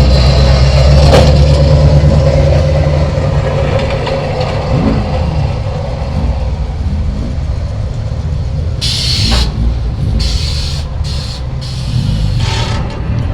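Heavy truck engine rumbling past, loudest in the first few seconds, then lower road rumble. There are several short hisses in the last few seconds.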